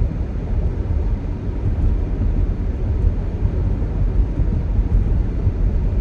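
Steady low rumble of a car heard from inside the cabin while driving. The owner takes the rumbling and shaking for a bad ignition coil.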